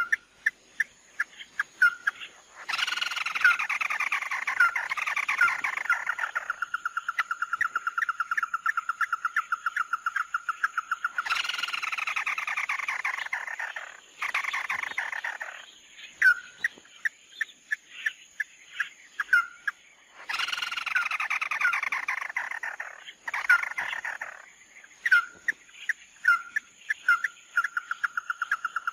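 Recorded calls of the bird Vietnamese trappers call "mắt đỏ", played as a lure. Short whistled notes repeat and at times run into a fast, even trill. These alternate with several-second stretches of many calls overlapping.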